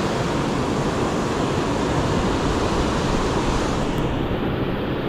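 Ocean surf washing on the beach, with wind buffeting the microphone. About four seconds in the sound turns duller as the top end drops away.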